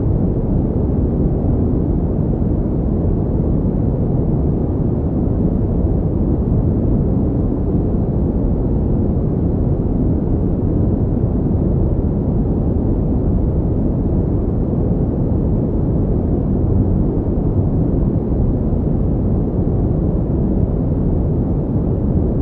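Steady pink noise: a deep, even rushing hiss with most of its weight low down, unbroken and unchanging throughout.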